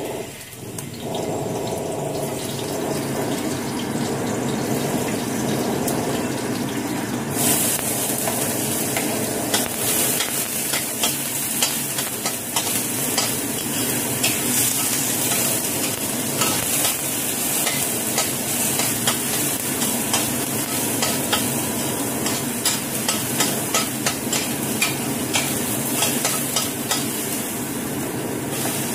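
Oil sizzling in a stainless steel wok as food is sautéed, with a metal spatula scraping and clicking against the pan. The sizzle gets louder and hissier about seven seconds in.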